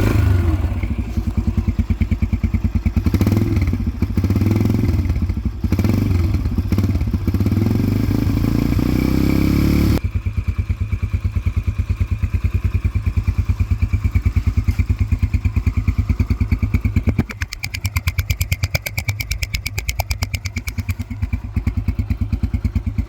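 Yamaha TT-R125's air-cooled single-cylinder four-stroke engine running just after a cold start, rising and falling in revs over the first ten seconds, then settling to a steady idle while it warms up.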